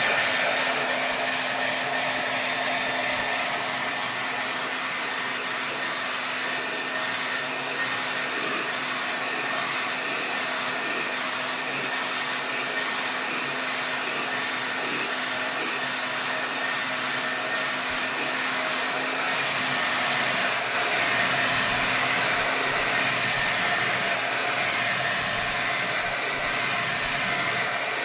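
Hair dryer blowing steadily at full power: a constant rush of air with a faint motor hum underneath, swelling a little in loudness about two-thirds of the way through.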